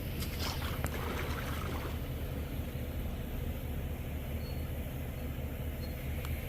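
Steady low rumble of a running vehicle, with a few light clicks and rustles in the first two seconds.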